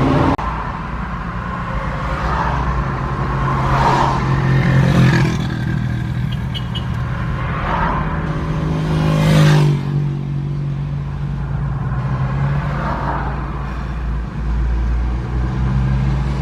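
Motor vehicle engine running with a steady low hum that swells louder a few times.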